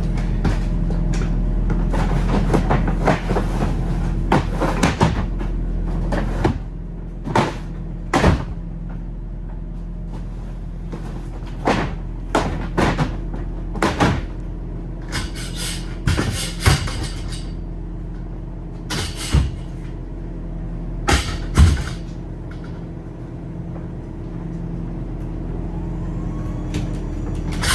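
Truck engine running steadily, with many irregular sharp knocks and rattles over it.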